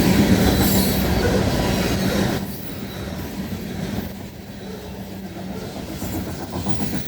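Freight train's cars rolling past close by: steel wheels clattering over the rail, loud for the first couple of seconds, then dropping to a lower steady rumble.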